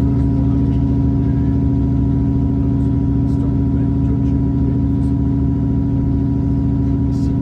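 Diesel train's engine running steadily, an even hum with a constant pitch.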